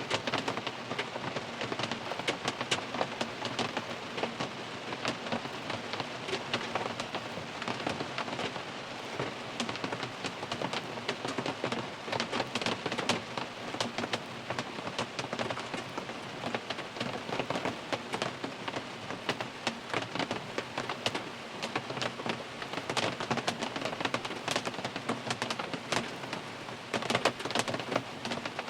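Steady rain drumming on a car's roof and windows, heard from inside the car: a dense patter of many separate drop hits, with no let-up.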